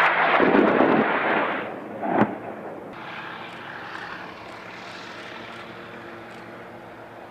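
A loud weapons blast rumbling away during the first second and a half, then a second sharp bang about two seconds in, followed by a military jet aircraft's engine noise swelling and fading overhead.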